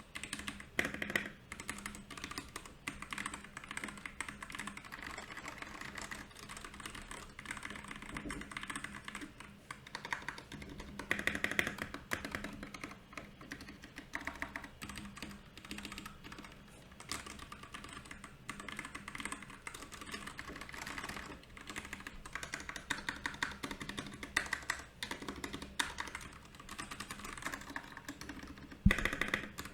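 Continuous fast typing on a Royal Kludge RK68 mechanical keyboard: dense runs of key clicks with short pauses, and one louder sharp key strike near the end.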